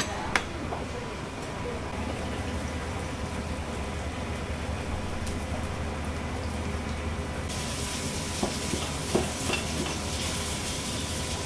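Steady sizzling hiss of frying over a low kitchen hum. Near the end a knife knocks a few times on a cutting board as fried chicken is cut.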